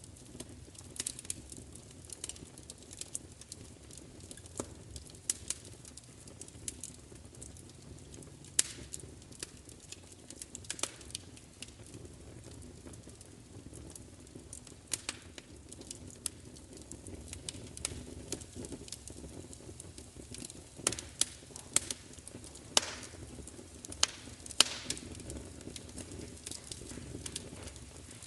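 Wood fire crackling: irregular sharp pops and snaps over a steady low rush of burning, with the loudest pops bunched together about three quarters of the way through.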